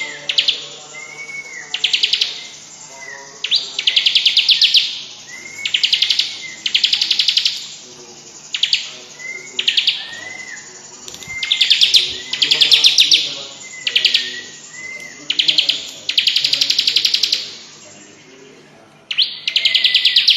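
Bar-winged prinia (ciblek) singing its rattling 'cetrekan' chatter: bursts of rapid ticking notes about a second long, repeated every second or two, with short arched whistled notes between them.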